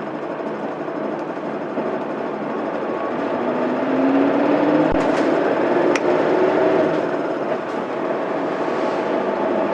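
Inside a Mitsubishi Fuso Aerostar city bus on the move, its 6M70 straight-six diesel running under steady road noise. A few seconds in, the engine note rises and grows louder as the bus pulls. Two sharp clicks come around halfway through.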